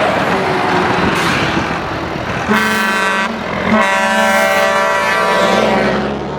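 Truck horn sounding over engine noise: one short blast, then a longer blast of about two and a half seconds.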